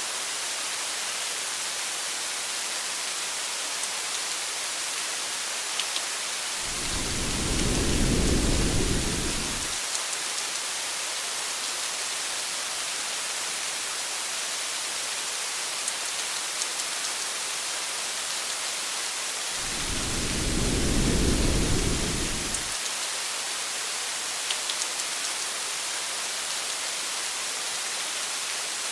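Steady rain hiss with a few faint drop ticks, and two low rolls of thunder, each about three seconds long and about thirteen seconds apart.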